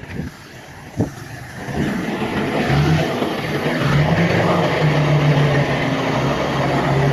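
Heavy diesel engine of earthmoving machinery running, growing louder about two and a half seconds in and then holding steady. A single short knock about a second in.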